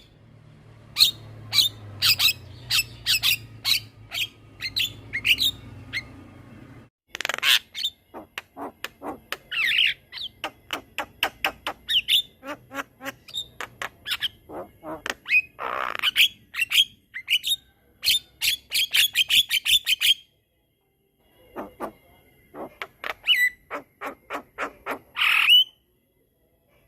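Javan myna (jalak kebo) singing a long, rapid run of sharp clicking and whistled notes mixed with a few harsh, grating calls, pausing briefly twice.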